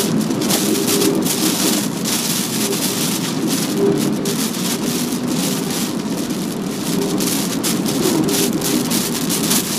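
Heavy typhoon rain and wind lashing a moving car, rising and falling in short gusts over a steady low hum.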